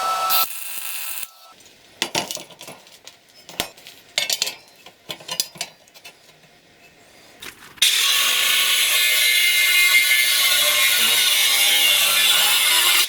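Scattered clicks and knocks of metal parts and tools being handled. From about eight seconds in, a loud, steady, hissing grind of a power tool working metal takes over.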